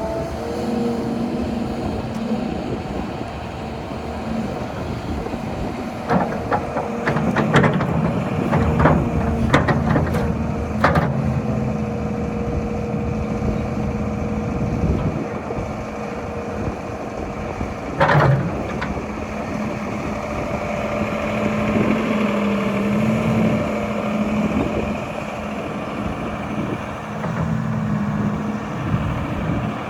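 2005 Volvo EC240BLC excavator's diesel engine running steadily. A cluster of knocks comes about six to eleven seconds in, and a single sharp knock about eighteen seconds in.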